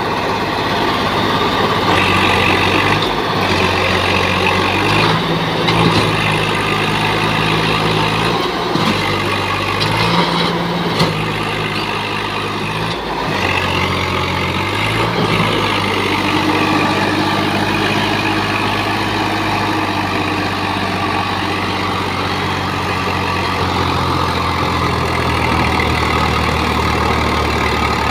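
Swaraj 855 tractor's diesel engine running hard under a heavy load of paddy, revving up and down repeatedly as it strains against being stuck. In the last stretch the engine holds a steadier drone.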